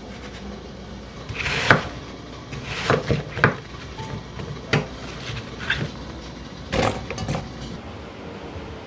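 Kitchenware being handled: about seven separate knocks and clatters, spread irregularly over several seconds.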